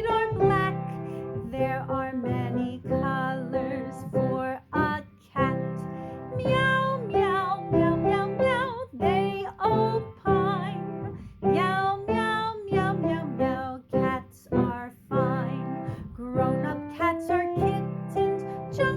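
A children's canon song sung with vibrato over a plucked acoustic guitar.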